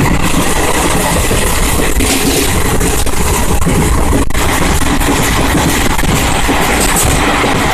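Passenger train running along the line: a loud, steady rumble of wheels on rails mixed with rushing wind noise.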